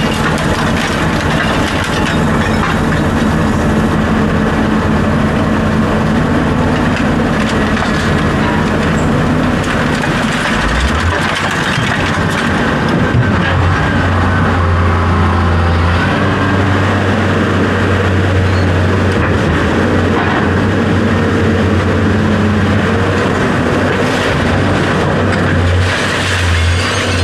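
A motor or engine running steadily, with a deep hum that sets in about eleven seconds in, and a few light knocks.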